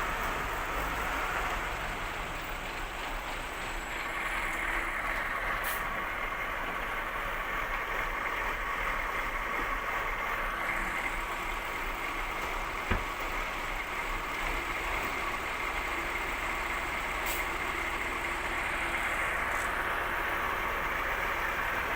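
Heavy vehicle's engine running steadily, with a single sharp knock partway through.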